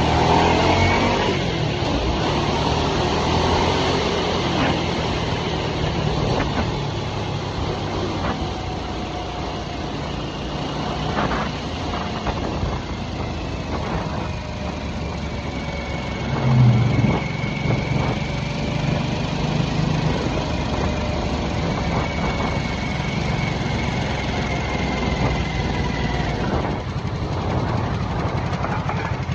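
2023 Harley-Davidson Nightster's liquid-cooled Revolution Max 975T V-twin running steadily while the bike cruises, with a brief rise in the engine note about two-thirds of the way through.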